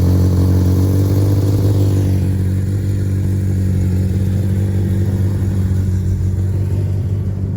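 A vehicle engine running loud at steady high revs, its pitch held level, as when a stuck car is driven hard in snow.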